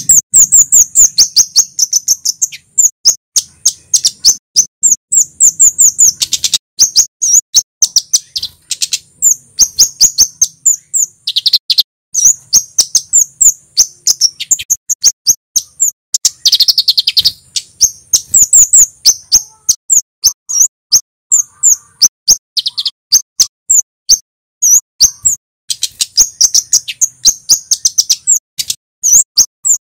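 Male kemade songbird singing loudly and continuously in rapid volleys of sharp, high-pitched chirps, each note a quick falling sweep. The runs break off for a moment every few seconds and start again.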